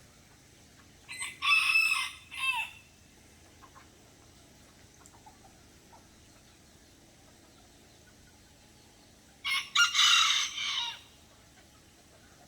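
Serama bantam rooster crowing twice, about eight seconds apart; each short, high-pitched crow lasts about a second and a half and ends on a falling note.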